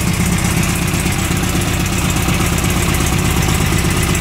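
2010 cc VW stroker engine, an air-cooled flat-four, idling steadily just after a cold start, its first after sitting for months.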